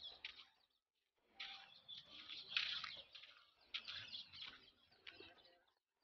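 Small birds chirping and twittering faintly in short scattered clusters, with brief silent gaps between them.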